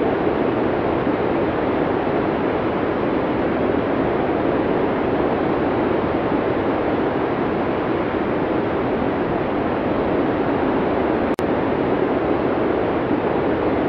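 Arctic blizzard wind sound effect: a steady, dense rush of storm wind with no gusting pitch, broken by a very brief dropout and click about eleven seconds in.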